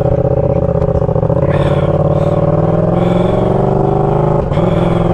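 Yamaha R7 motorcycle's parallel-twin engine running steadily, with a short break in the sound about four and a half seconds in.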